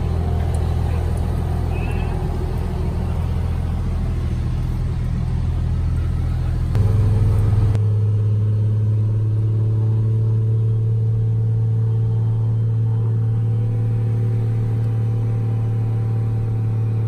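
Diesel truck engine held at steady high revs on a chassis dyno: a loud, deep, steady drone. About seven seconds in, its pitch steps up slightly and the deepest rumble drops away.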